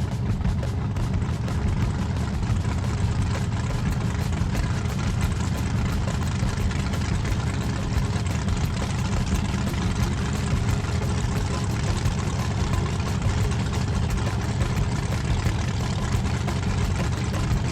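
Drag-race pickup truck's engine running steadily with a low rumble, without revving.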